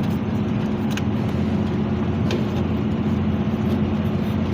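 Steady machinery hum, with a few light metallic clinks of hand tools about one and two seconds in.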